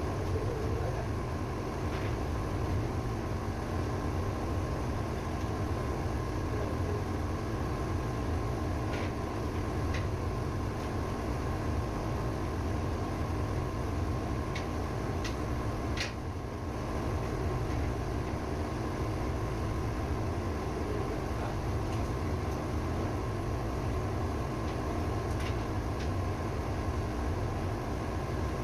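Ship's auxiliary engine running steadily, with a few short clicks here and there.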